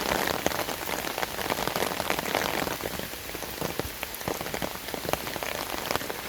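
Rain falling steadily, with many separate drops striking close by; it eases slightly about three seconds in.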